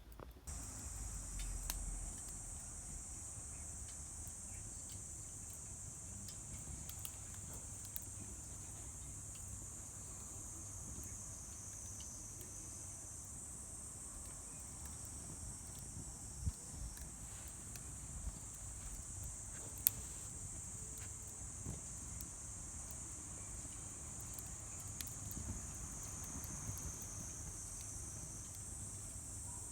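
Crickets chirring in a steady high-pitched chorus, with a few sharp pops and crackles from a wood fire burning in a Solo Stove Campfire fire pit.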